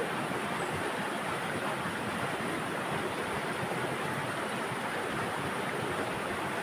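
Forest river flowing, a steady rushing of water over rocks.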